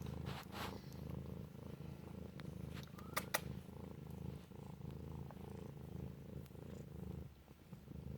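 Cat purring steadily, a continuous low rumble, with two sharp clicks about three seconds in.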